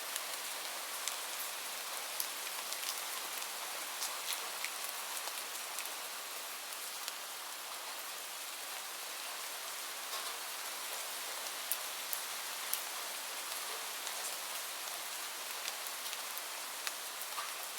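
Steady rain falling, an even hiss with scattered sharp ticks and pops throughout.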